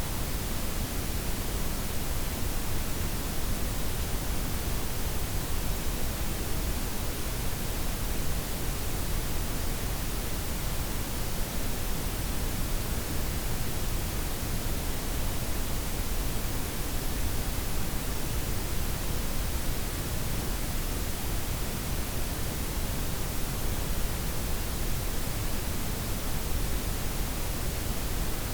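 Steady synthetic noise: a blend of white, pink and brown noise with the highs softened, a smooth, even hiss and rumble that does not change.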